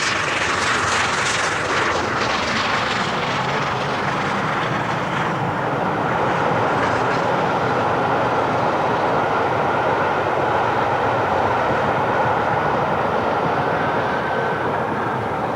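Steam locomotive Mallard, an LNER A4 Pacific, running on the main line: a loud, steady rush of locomotive and train noise that goes on without a break.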